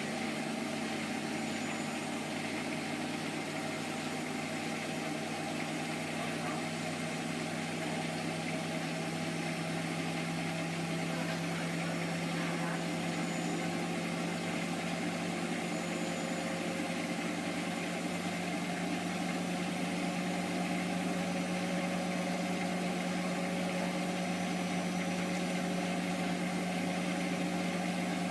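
Hotpoint HE8L493 washing machine spinning, a steady motor hum with one strong, even tone that grows a little louder over the second half, typical of the final spin near the end of a Fastwash cycle.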